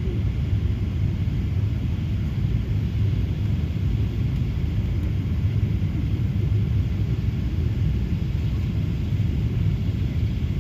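Boeing 777 passenger-cabin noise: a steady low rumble of the engines and the air rushing past the airliner in flight.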